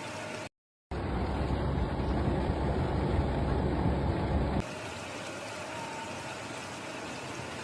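Steady hiss of heavy rain, cut off briefly by a silent gap about half a second in. For the next four or so seconds a louder low rumble sits under the rain, then it drops back suddenly to the quieter rain hiss.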